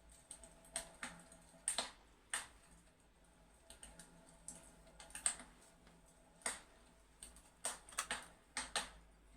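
Fireplace crackling: sharp, irregular pops and snaps, one to three a second, some in quick pairs, over a faint steady hum.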